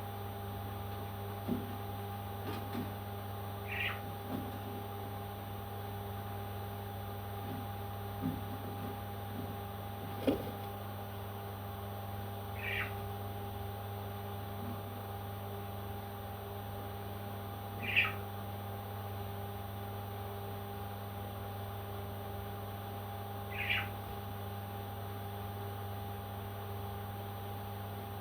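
Pet parrot giving short, single squawks, about five of them spaced several seconds apart, over a steady electrical hum with a few faint taps.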